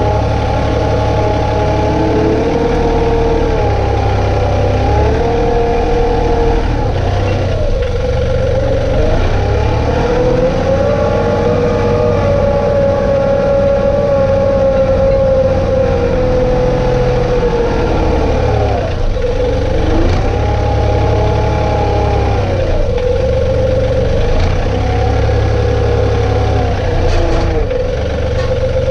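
John Deere 2032R compact tractor's three-cylinder diesel running under work, its pitch dipping and rising again several times as the load and revs change.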